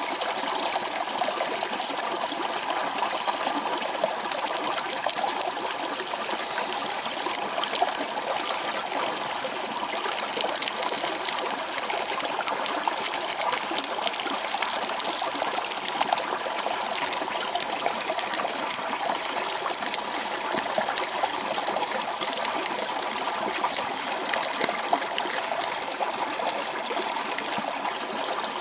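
A stream of running water trickling and splashing steadily, with small clicks and crackles scattered through it.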